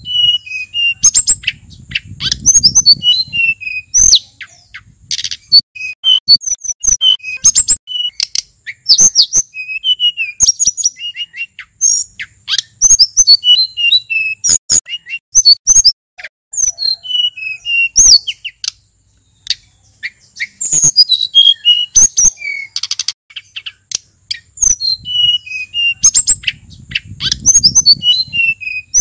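Male sulingan gunung songbird singing a rapid, varied song of high chirps, short whistles and trills, phrase after phrase with only brief gaps. A low rumble sits under the song about two seconds in and again near the end.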